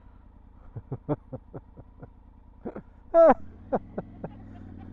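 Triumph Tiger 900's three-cylinder engine idling low, then its note rises and steadies about three seconds in as the bike moves off. A quick run of short pitched chirps comes in the first couple of seconds.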